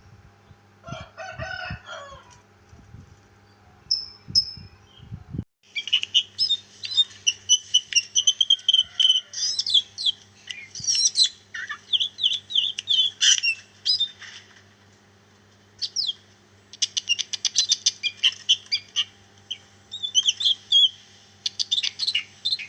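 A caged songbird singing a long, varied song of quick chirps, whistles and trills that starts about five seconds in, with a fast run of repeated notes partway through. A few soft low thumps come before the song starts.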